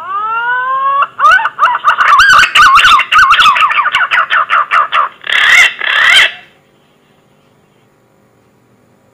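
Green pigeon (punai) whistled call played as a hunting lure: a rising whistle, then a fast run of warbling, up-and-down whistled notes, ending with two harsher notes. The call lasts about six and a half seconds.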